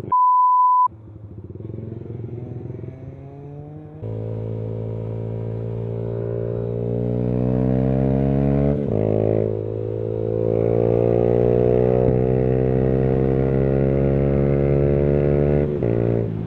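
A short steady beep, then the single-cylinder engine of a Yamaha YBR 125 running through a Leo Vince GP Corsa full-system exhaust under hard acceleration. The revs climb, fall at a gear change about nine seconds in, climb again, and fall at another shift near the end.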